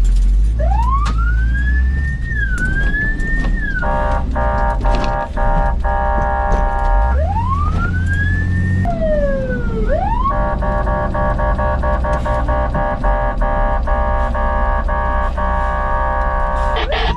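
Fire engine siren sweeping up and down in pitch, broken by two long horn blasts of several steady tones at once, the second held for about seven seconds, over a low engine rumble.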